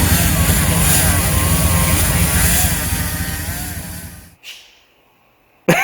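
Small-block Chevy V8 running with the car in gear and a rear wheel off, spinning the bare hub to turn a wheel spacer like a lathe. The sound fades away and stops about four seconds in, and a single click follows.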